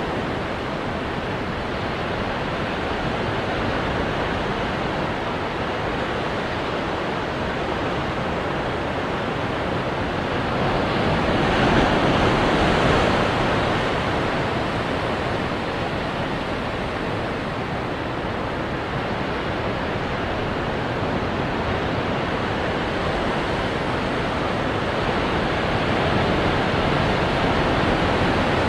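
Ocean surf washing against rocks: a continuous rush of water, with one bigger wave building and breaking about twelve seconds in.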